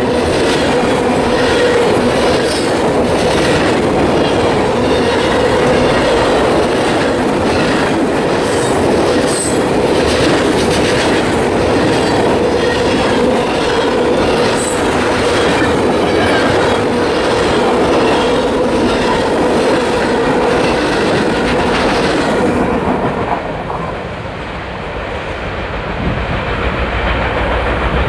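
Freight cars rolling past right beside a microphone at rail level: steady wheel-on-rail rumble with repeated clickety-clack of wheels over rail joints. About 23 seconds in the last car passes and the sound drops away, leaving a quieter low rumble.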